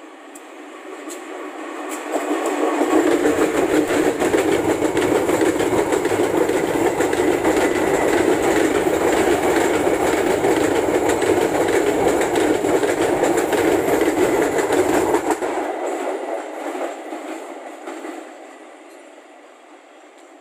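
Diesel-hauled ballast train passing close by: the locomotive and a long string of ballast wagons running past, wheels clattering on the rails. It builds up over the first few seconds, holds steady and loud for about twelve seconds, then fades away over the last few seconds.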